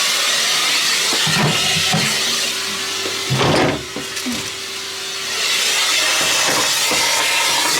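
Numatic Henry cylinder vacuum cleaner running, hoovering out the inside of a fridge. The noise surges briefly about three and a half seconds in, drops for a second or two, then rises back to its steady level.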